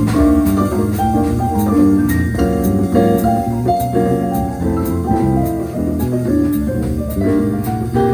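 A live jazz band playing: a piano or keyboard picking out short notes over a walking bass, with a steady beat on the drums and cymbals.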